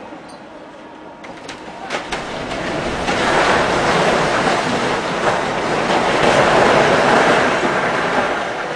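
A few knocks, then a long rushing crash of rubble and masonry coming down during a building demolition, swelling about three seconds in and easing off near the end.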